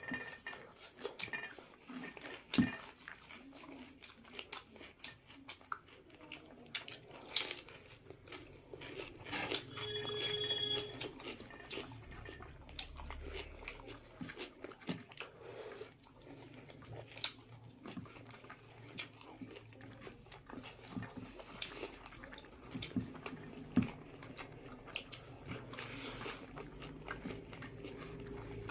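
Close-up eating sounds of people chewing and biting food by hand: irregular wet smacks and crunchy bites, with scattered sharp clicks. A brief pitched whine comes about ten seconds in.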